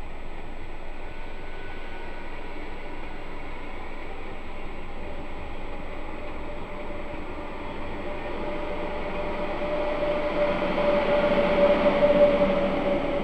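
SJ X2000 electric train pulling out of the station: rolling and running noise with a steady hum that grows louder through the second half, loudest near the end.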